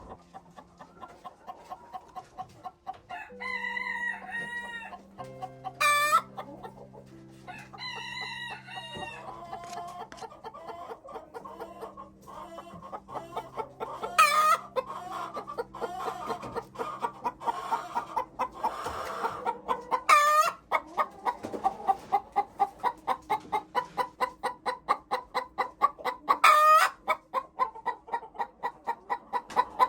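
Chickens clucking and calling, with a few sharp calls and a fast run of repeated clucks through the second half. Soft background music holds long low notes underneath.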